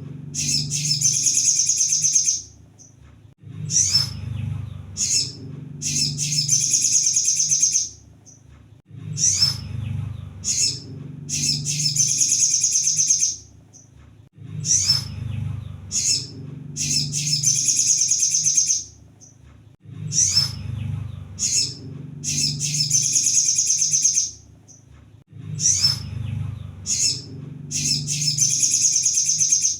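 Sunbird (kolibri sogon) song played as a lure recording: a few short, sharp high chirps, then a fast high-pitched trill of about two seconds. The phrase repeats about every five and a half seconds, over a steady low hum.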